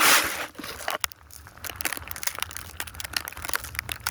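Snow crunching and crackling close to the microphone: a brief rushing burst at the start, a sharp click about a second in, then a quick run of small crisp crunches.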